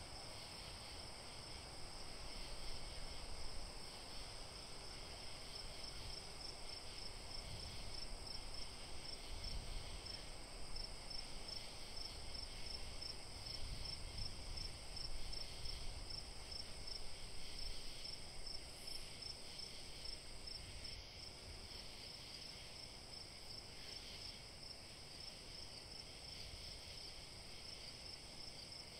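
Crickets chirping in a continuous, evenly pulsing trill, over a low, uneven rumble.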